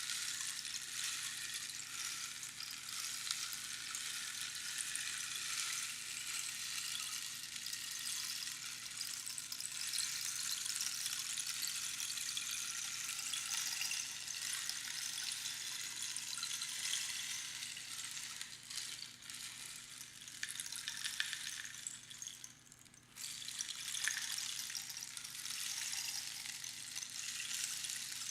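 Rainstick: small pebbles trickling down through the pins inside the hollow tube, a continuous rain-like patter. It breaks off for a moment near the end, then starts again.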